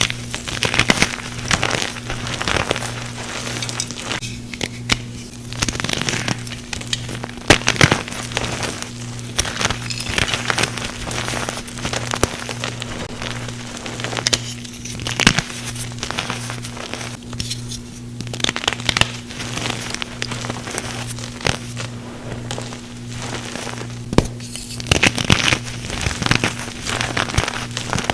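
Reformed blocks of gym chalk and calcium carbonate being crushed and crumbled, a dense crackling and crunching with frequent sharp snaps, over a steady low hum.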